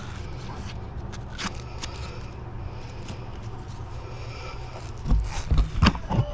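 Steady low hum of a running machine, with light scraping and a few loud knocks about five seconds in.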